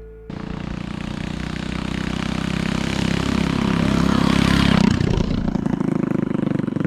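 Honda GX160 5.5 hp single-cylinder engine on a mini bike running under way, its rapid firing pulses steadily getting louder for the first few seconds, then easing briefly about five seconds in before carrying on.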